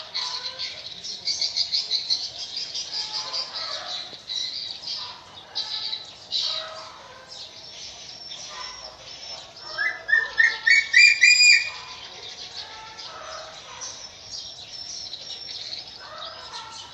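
Bird calls: a dense, fast high twittering throughout. About ten seconds in, the loudest sound is a quick series of short piping notes rising in pitch, lasting about two seconds.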